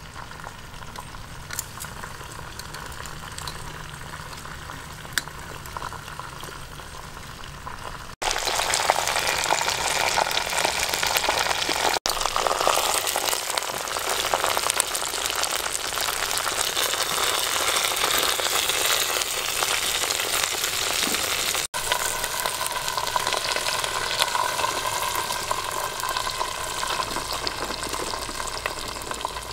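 Chicken pieces frying in hot oil in a pot, a steady sizzling that becomes much louder about eight seconds in.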